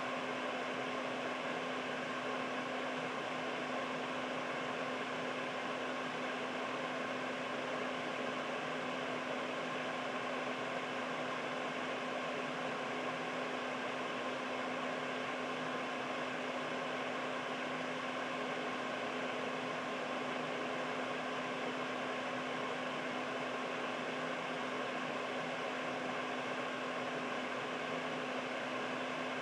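Air purifier running steadily: a constant rush of fan air with a steady motor hum.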